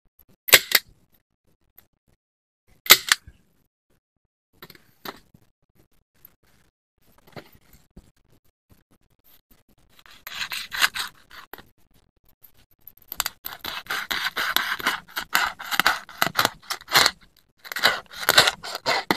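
Scraping and rubbing handling sounds: two sharp strokes near the start, a few faint ones, then a dense run of ragged scraping through the second half.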